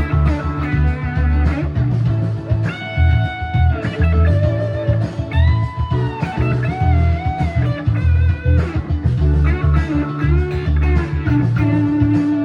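Overdriven Gibson Les Paul Standard 50s electric guitar played through a gain pedal into a Quilter Micro Pro amp, a lead line of sustained notes with string bends over a blues-rock backing track of drums and bass.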